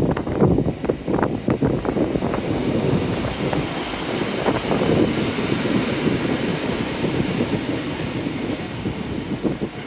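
Diesel passenger train running into the platform, heard under strong wind buffeting the microphone. The gusts are loudest in the first couple of seconds; a steadier rushing train noise takes over in the middle.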